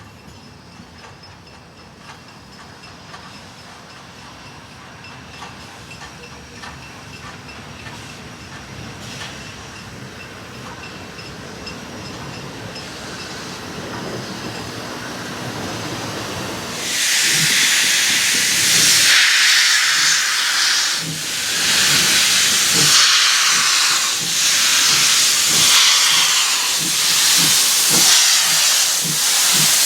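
Swedish steam locomotive SJ 1916 approaching, its sound growing steadily louder, then passing close about 17 s in with loud steam hiss and a regular beat of exhaust chuffs.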